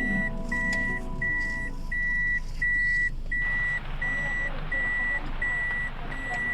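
Electronic warning beeper sounding an even series of single high beeps, about three every two seconds, with a steady hiss joining about halfway through.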